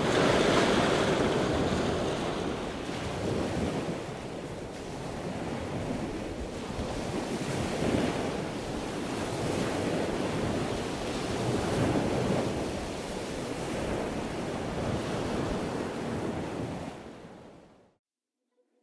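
Surf washing on a sandy beach with wind buffeting the microphone, swelling and easing every few seconds; it fades out near the end.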